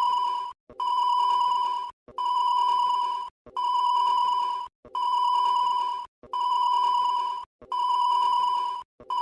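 Loud electronic ringing tone, one steady pitch, sounding in bursts of just over a second and repeating about every second and a half with short gaps, like a looped ringtone or alarm beeper.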